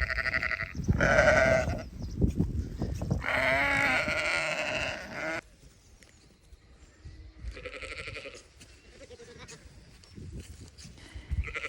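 Sheep bleating several times, with loud, wavering calls in the first five seconds. The sound drops suddenly, and fainter bleats follow.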